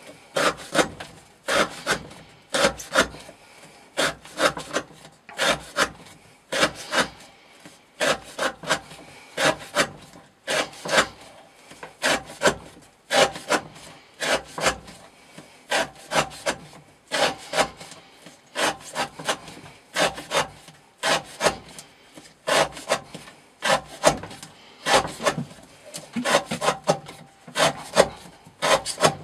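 Hyperion Medium Mamba knife slicing through rope again and again in an edge-wear test, each cut a short scraping stroke, often in quick pairs or threes.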